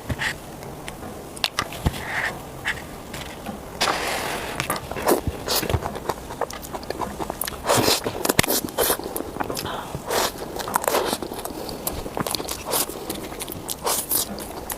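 Close-miked eating of small cakes: repeated bites, chewing and sharp wet mouth clicks, with short crackling bursts a few times.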